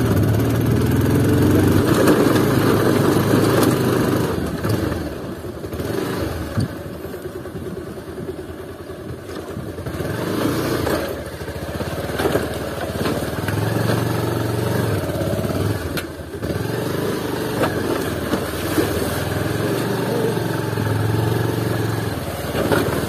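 Bajaj Pulsar 220F's single-cylinder engine running at low speed on a rough, rocky dirt track. Its note rises and falls with the throttle, dropping off a third of the way in and picking up again several times.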